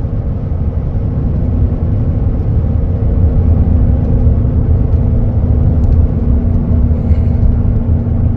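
Steady road and engine noise of a car driving along a highway: a continuous low rumble with a faint steady hum, growing a little louder about three seconds in.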